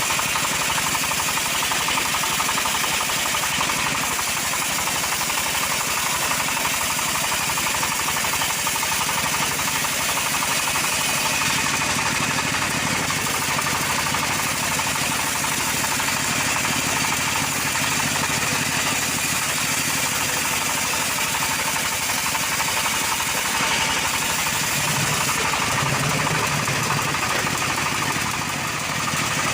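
Two-stroke chainsaw running steadily at high speed, cutting through a large log.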